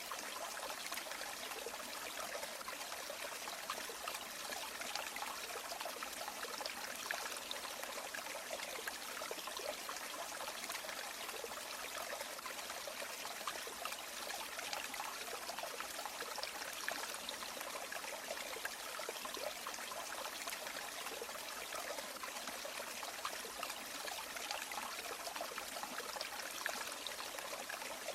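River water flowing steadily, a continuous rushing and trickling with many small splashing flickers and no breaks.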